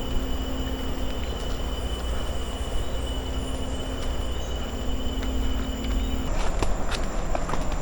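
Steady high-pitched drone of rainforest insects over a low rumble. About six seconds in the sound changes abruptly to a run of scattered sharp clicks.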